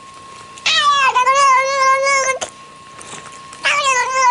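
A cat yowling twice, each call long with a wavering pitch; the second begins near the end.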